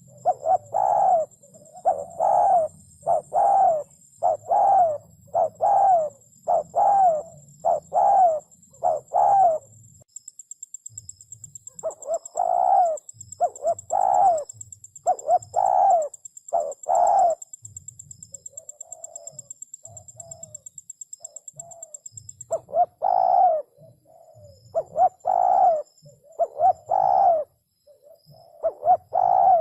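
Spotted dove cooing: a long series of repeated low coos, about one every three-quarters of a second. The runs break off briefly about ten seconds in and again near twenty seconds, with softer coos between them.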